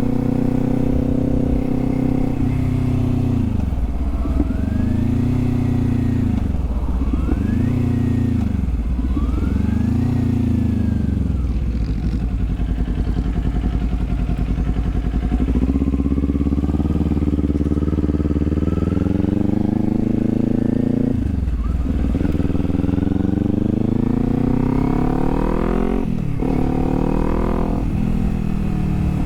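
Kawasaki Z400 parallel-twin engine and exhaust running on the move. The revs dip and climb three times a few seconds in, then hold steady. They then climb through the gears, with two upshifts near the end.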